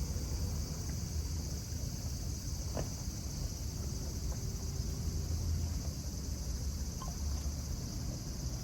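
A steady high-pitched insect chorus over a steady low rumble, with a faint click about three seconds in.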